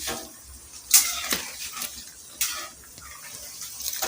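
Kitchen clatter: two sharp clinks of utensils or dishes, about a second and two and a half seconds in, over a faint steady hiss.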